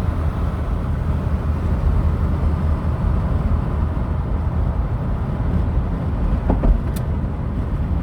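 Steady low rumble of a car driving, heard from inside the cabin: engine and tyre road noise, with a brief click near the end.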